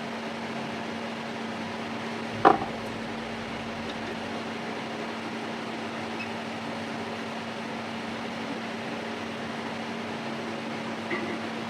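Steady electric fan hum with a constant low tone, as from the blower of a hot-air rework station or a bench fan, with one sharp click about two and a half seconds in.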